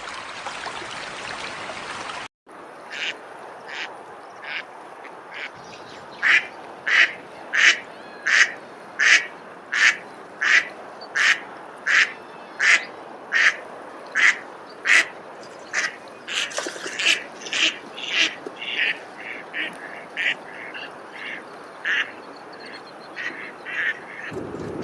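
Running water for about two seconds, cut off sharply. Then a long series of short, sharp animal calls follows, at about three every two seconds, which turn faster and more irregular past the middle over a steady background hiss.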